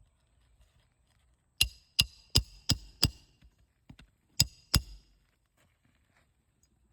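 Hammer driving roofing nails into an asphalt shingle: five quick strikes with a short metallic ring, a pause, then two more strikes.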